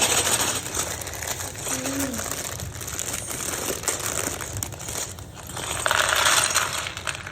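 Plastic bag of Lego bricks crinkling and rustling as it is handled and opened, with the loose bricks inside shifting. The rustle grows louder about six seconds in.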